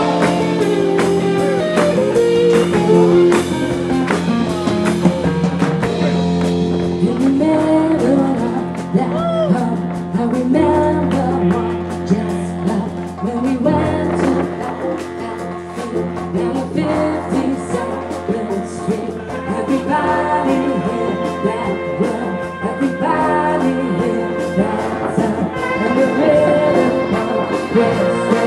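Big band playing live, with a singing voice over the band. Held brass chords come in over the last several seconds.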